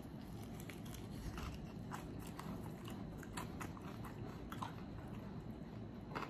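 A person chewing a mouthful of crispy fried chicken wing: irregular wet mouth smacks and small crunchy clicks.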